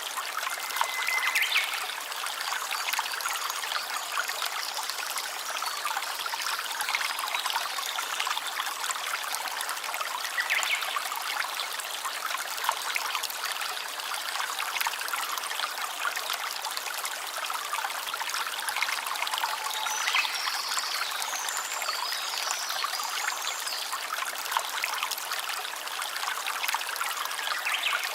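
Small stream running and trickling steadily over stones, with a few brief high chirps now and then.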